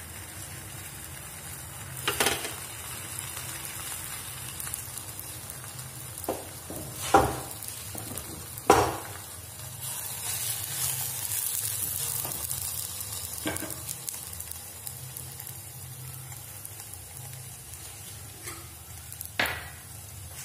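Paratha dough sizzling in oil on a hot iron tawa, a steady hiss that swells for a few seconds about halfway through. About five sharp knocks cut through it as the flatbread is handled on the griddle.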